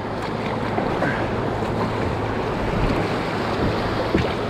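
Choppy river water rushing and splashing around a kayak, with wind buffeting the microphone, a steady even noise.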